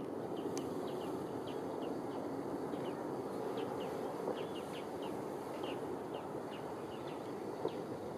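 Small birds chirping, with many short falling notes scattered throughout, over a steady low background rumble of outdoor noise.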